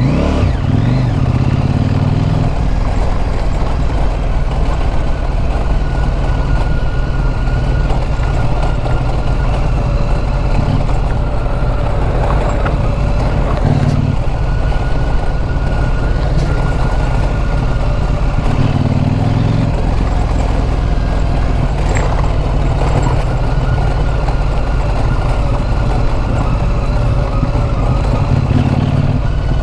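Motorcycle running steadily while being ridden, its engine note mixed with heavy rumble from the ride.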